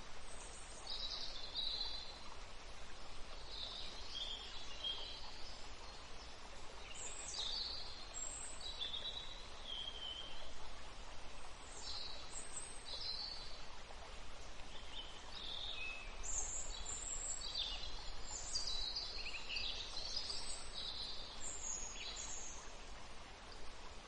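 Songbirds chirping and singing in short, scattered calls over a steady soft hiss of outdoor ambience.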